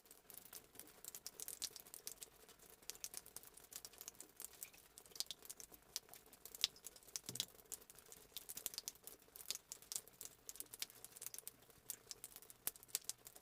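Rain falling, with drops pattering close by in an irregular stream of small sharp ticks.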